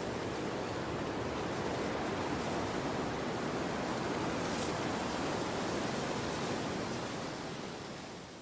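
Storm wind blowing hard in a steady, even rush, fading out near the end.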